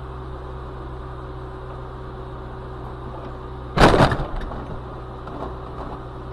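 Steady hum of a car's engine and cabin, then just before four seconds in a sudden loud crash of a collision, with clatter trailing off over the next second.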